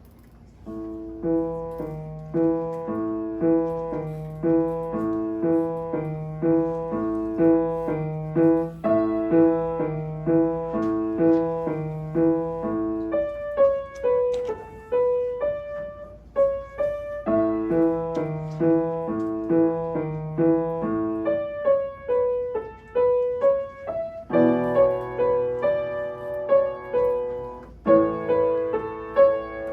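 Solo piano playing a beginner piece, starting about a second in: a steady repeated low accompaniment figure under the melody, a lighter stretch of single notes in the middle, and fuller chords near the end.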